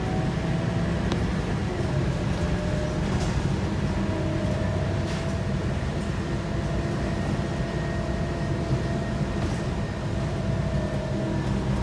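Scania K230UB bus running under way, heard from inside: the Scania DC9 five-cylinder diesel gives a steady low rumble, with a steady gearbox and drivetrain whine from the ZF six-speed automatic that shifts pitch slightly now and then, and a few light rattles.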